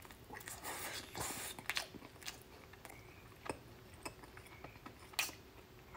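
Biting and chewing of a piece of sauced barbecued meat, with irregular sharp mouth clicks through the chewing.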